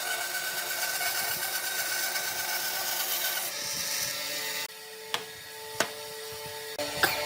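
Woodworking power tool running on wood with a steady whine and hiss, cutting out about two-thirds of the way through, followed by a few sharp clicks.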